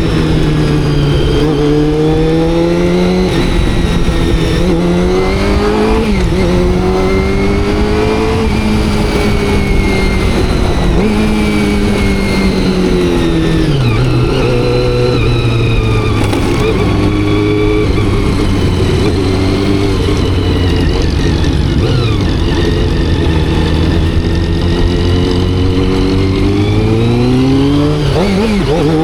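Honda CBR400RR's carbureted inline-four engine and exhaust under way, the revs climbing and dropping sharply several times through gear changes. The engine holds a steady pitch for a long stretch in the middle, then revs up again near the end.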